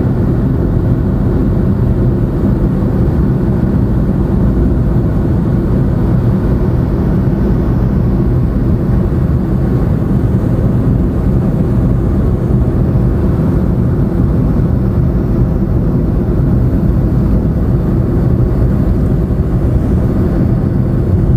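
Steady road and engine noise of a moving car heard from inside its cabin: a low, even rumble that holds level throughout.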